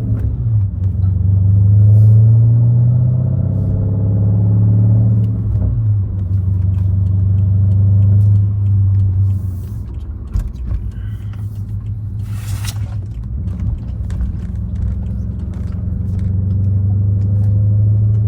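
The 4.4-litre twin-turbo V8 of a 2013 BMW 550i, running an H-pipe, catless downpipes and a muffler delete, drones steadily while driving under part throttle rather than a full pull. Its pitch drops about five and a half seconds in, and the drone eases off past the middle before building again near the end.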